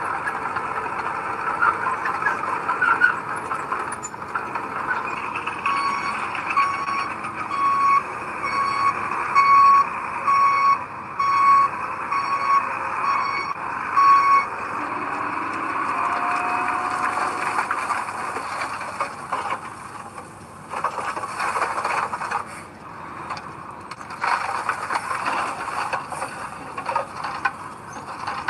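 Heavy construction machinery running, with a reversing alarm beeping about once a second, some ten beeps, through the first half. In the second half, a series of knocks and clanks over the engine.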